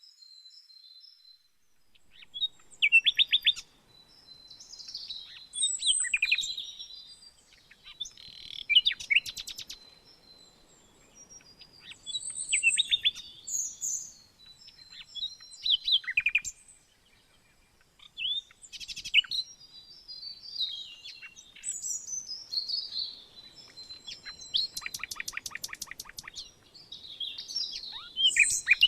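Songbirds singing in short, high-pitched phrases of chirps and rapid trills, one every second or two with brief quiet gaps between them.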